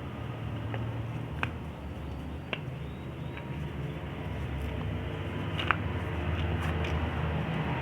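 Chalk being crushed, a dry crumbling crunch with a few sharp cracks about one and a half, two and a half and nearly six seconds in. A steady low hum runs underneath.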